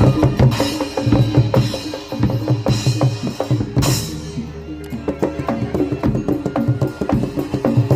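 Barongan gamelan ensemble playing a fast, dense rhythm: hand drums with struck metal keyed instruments ringing over them, and a crash about four seconds in.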